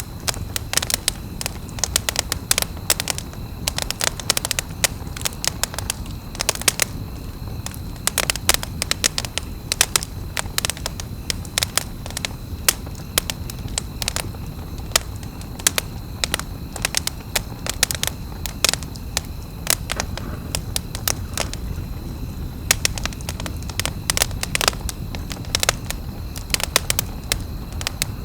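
Wood campfire crackling, with frequent irregular sharp pops over a low steady rumble of the burning.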